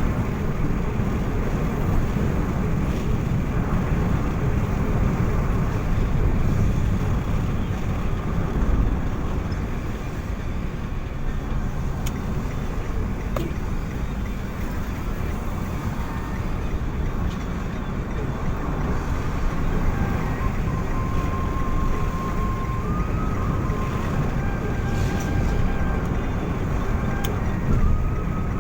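Steady rumble of a road vehicle on the move, with engine and road noise that stays even throughout.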